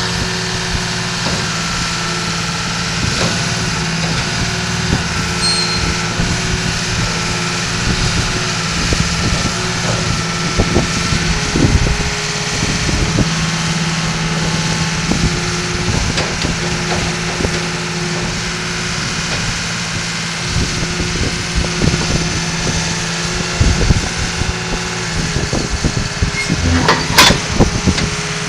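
John Deere 750K crawler dozer's diesel engine running at a steady speed, with scattered knocks and a sharper clank near the end.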